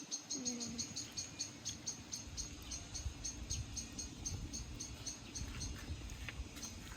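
Crickets chirping in short, evenly repeated high pulses, about three to four a second, over uneven low background noise.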